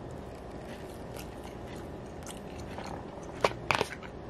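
Close-up mouth sounds of a person chewing a bite of salmon, with soft wet clicks throughout and a few sharp smacks about three and a half seconds in.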